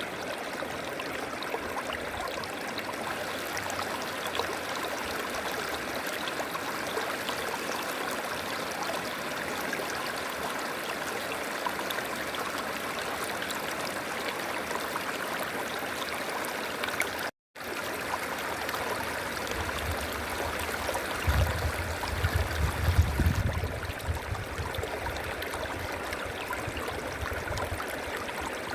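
River flowing, a steady rush of running water. Halfway through, the sound cuts out for an instant. Then comes a few seconds of low rumbling thumps under the water noise, the loudest part.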